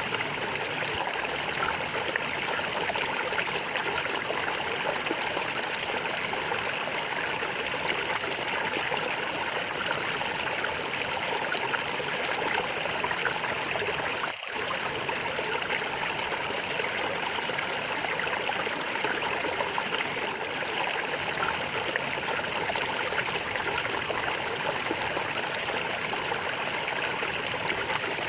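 Water gurgling and flowing steadily, like a small stream running over stones, with a momentary break about halfway through.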